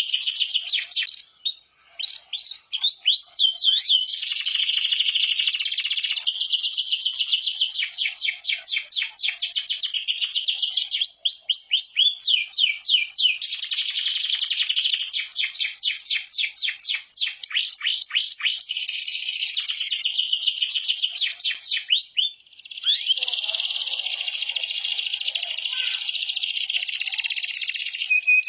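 Domestic canary singing a long, fast song of rapid trills and quickly repeated notes, with a couple of brief pauses.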